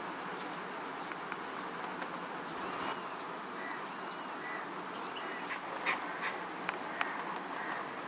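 Indian rollers giving short calls that rise and fall in pitch over a steady background hiss, with a few sharp clicks in the second half.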